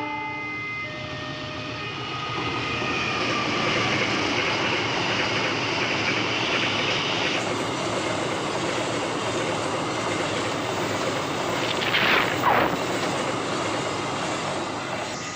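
A passing train makes a steady, loud rushing rumble of wheels on rails. A short falling squeal comes near the end.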